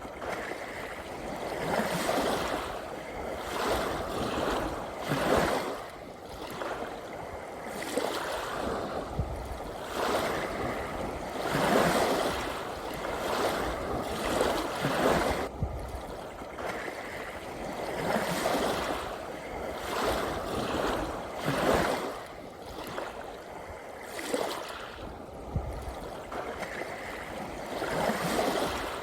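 Ocean waves washing onto the shore, a continuous rushing that swells and falls back every couple of seconds.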